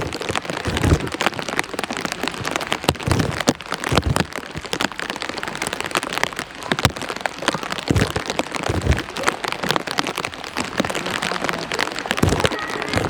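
Heavy rain pouring down, a steady hiss dense with sharp drop strikes close by, with a few dull thumps now and then.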